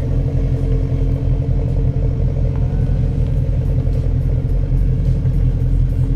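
Car engine running steadily with a deep exhaust rumble and no revving.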